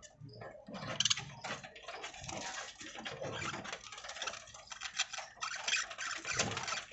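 A flock of budgerigars chirping and chattering, mixed with many short irregular ticks and clicks.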